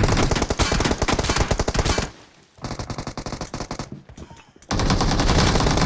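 Rapid automatic gunfire in a shooter video game. A long loud burst is followed by a quieter stretch of shots about two seconds in, and then another loud burst near the end.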